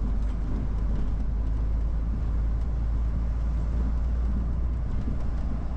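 Articulated lorry's diesel engine and road noise while driving: a steady low rumble.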